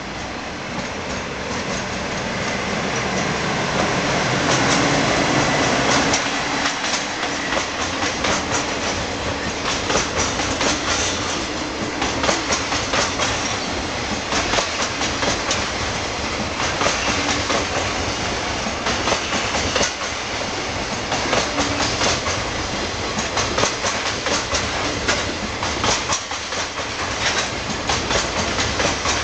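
Container freight train passing at speed. The sound builds over the first few seconds as the head of the train arrives. Then the wagon wheels clack over the rail joints in steady, repeating clusters.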